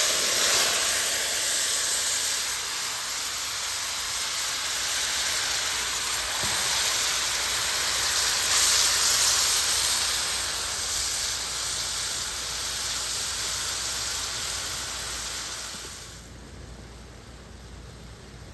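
Seasoned chicken pieces sizzling in a pot of hot browned brown sugar, a loud steady hiss that eases slightly and drops away about sixteen seconds in.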